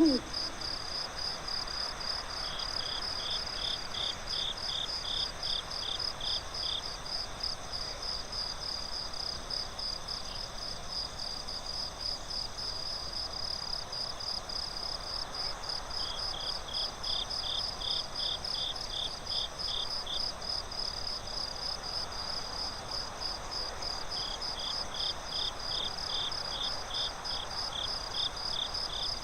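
Crickets chirping in a steady fast pulse, with a second, lower-pitched chirping joining in three bouts of a few seconds each.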